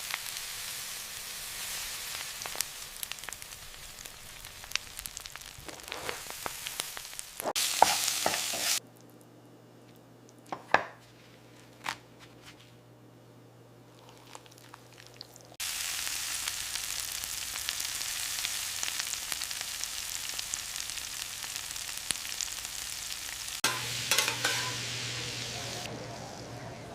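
Food sizzling and frying in hot oil, a steady hiss that breaks off and starts again in several separate stretches. In the middle there is a quieter spell with a few sharp clicks.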